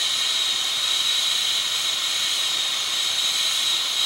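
Steady, high-pitched whistling hiss of a CO2 delivery truck filling a bar's bulk CO2 tanks, with no break or change.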